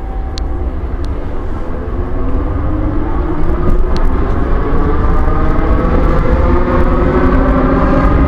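MF67 Paris Métro motor car's traction motors whining as the train pulls away, several tones rising steadily in pitch as it gathers speed, getting louder about three and a half seconds in. A few sharp clicks sound in the first second and again about four seconds in. The uploader reports a strange noise from this motor car.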